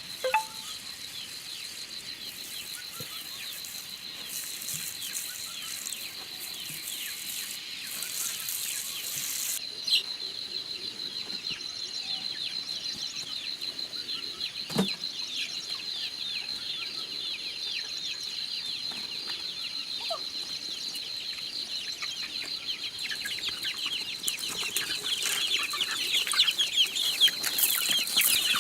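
Chickens clucking and chirping, with many short high calls growing busier near the end, over a steady high-pitched whine. A few sharp knocks stand out: one right at the start, and others about ten and fifteen seconds in.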